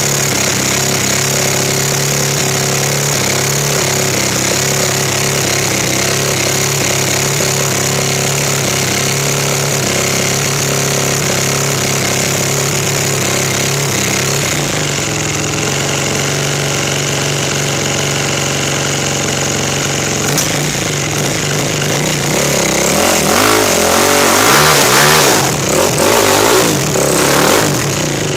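KTM 450 SX-F's single-cylinder four-stroke engine running at steady, held revs, then revved up and down repeatedly over the last several seconds.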